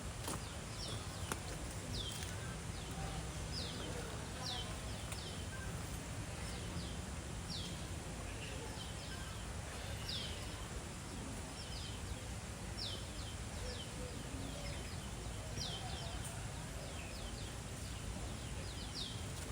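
A bird calling over and over with short, high notes that sweep downward, often in pairs, repeating every second or so against a steady outdoor background hum.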